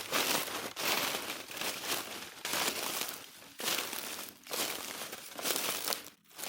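Footsteps crunching over the forest floor at a walking pace, a rustling crunch about once every second or less.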